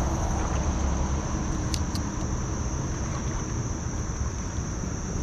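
Steady high-pitched drone of insects, likely crickets, over a low outdoor rumble, with two short faint clicks about two seconds in.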